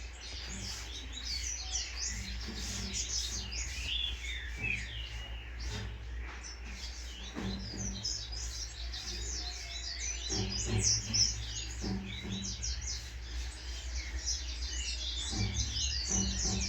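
Songbirds chirping and twittering, a dense stream of short, overlapping calls from several birds.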